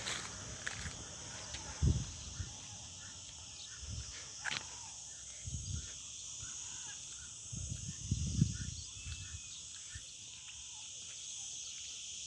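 Outdoor nature ambience: birds calling over a steady high hiss, with a few low thumps on the microphone.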